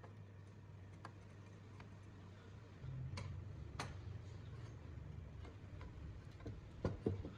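Scattered light clicks and taps of small parts or tools being handled. A low hum joins about three seconds in, and there are two louder knocks near the end.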